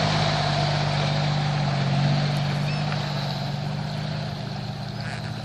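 Heavy truck engine running steadily while the truck fords a river; the sound slowly fades.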